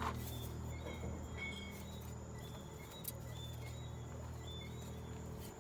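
Night ambience: short high chirps from calling night creatures repeat every second or so over a steady low hum, with one sharp click about three seconds in.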